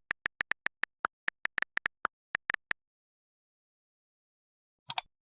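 A quick run of short, sharp, identical clicks, about five or six a second for under three seconds. Then silence, and two double clicks near the end.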